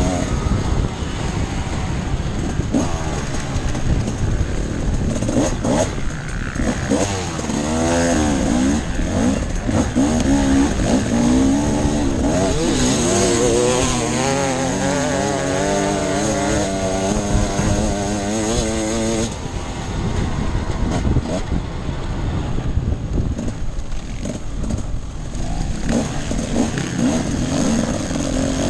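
Off-road enduro motorcycle engine running under load as it is ridden, its pitch rising and falling repeatedly with the throttle.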